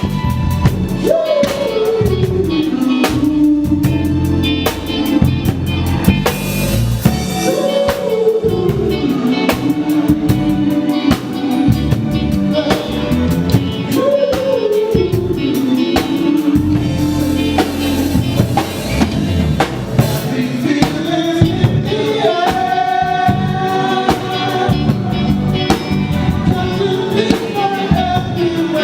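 A live band plays with keys, guitar and drum kit, a steady groove with drum hits throughout. Over it a lead melody line rises in pitch and sinks back down several times, about every six seconds.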